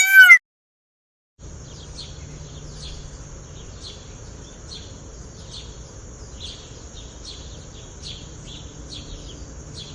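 A bird chirping over and over, about one and a half short falling chirps a second, over a steady high insect-like buzz and background noise. A loud honk cuts off right at the start, followed by a second of silence.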